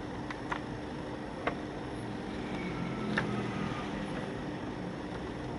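A few short, light clicks over a steady low hum.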